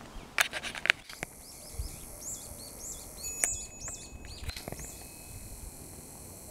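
A songbird singing a run of quick rising-and-falling chirps over a faint outdoor background, with a few loud sharp clicks about half a second in.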